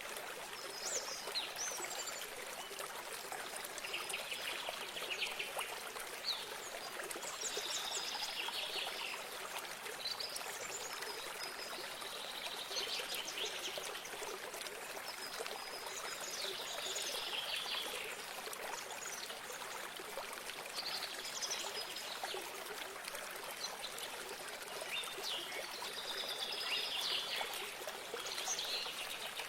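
Running water trickling steadily, with a songbird singing short repeated phrases every few seconds over it.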